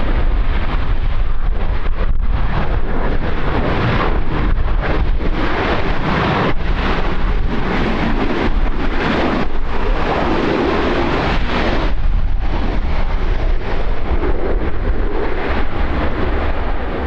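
Wind buffeting the microphone: a loud, gusty rumble that rises and falls.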